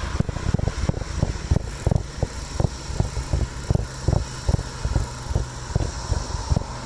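Rumbling recording noise from a moving bicycle ride: irregular low thumps, several a second, over a steady rush of air and road noise.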